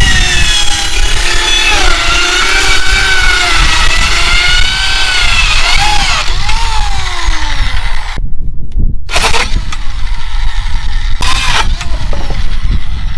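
Electric power saw running and cutting wooden shelf boards. Its motor whine wavers in pitch under load and winds down in a falling pitch a couple of times, with short breaks between cuts.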